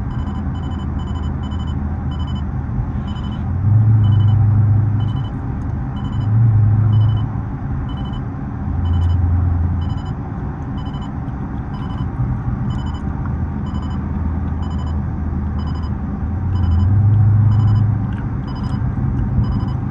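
Muffler-deleted 6.4-litre HEMI V8 of a Dodge Charger SRT 392 droning steadily while driving, heard from inside the car. Its low exhaust note swells louder four times as the throttle opens, and a faint regular high ticking runs through it.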